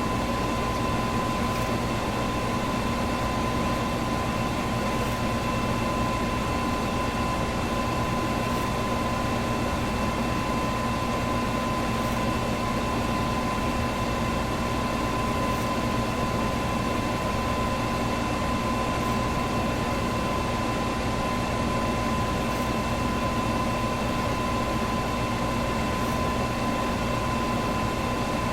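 Electric fan running steadily: an even rush of air with a constant motor hum.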